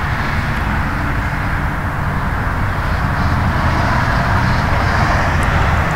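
Steady rumble and road noise of passing traffic, holding level for several seconds.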